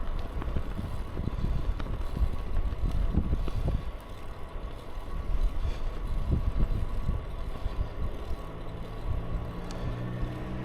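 Wind buffeting the microphone during a bicycle ride, in uneven low gusts. Near the end a motor vehicle's engine hum comes in and grows louder.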